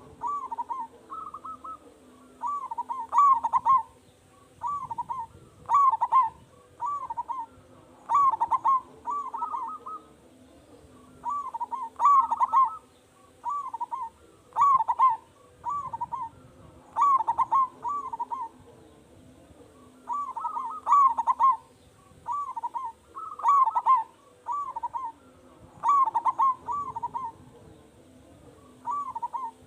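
Zebra dove (perkutut) singing: loud cooing phrases of several short, quick notes, a phrase every two to three seconds. A faint steady low hum runs underneath.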